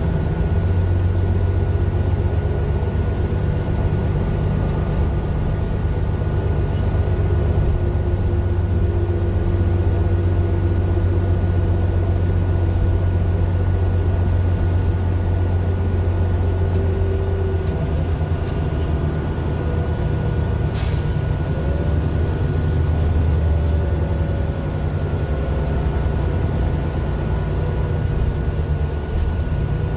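Mercedes-Benz Citaro LE city bus with its Daimler OM 457 hLA straight-six diesel running steadily; the engine note changes about 17 seconds in. A few faint clicks come between about 18 and 21 seconds.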